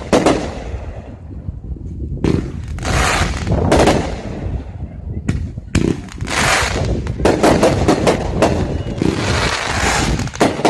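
Aerial firework shells bursting: a string of sharp bangs, several close together about seven seconds in, with crackling and hissing between them.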